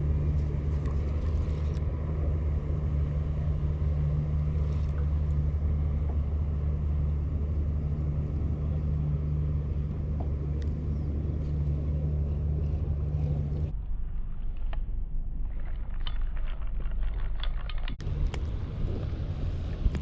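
Steady low motor drone, cutting abruptly about two-thirds of the way through to a duller rumble with a few small clicks.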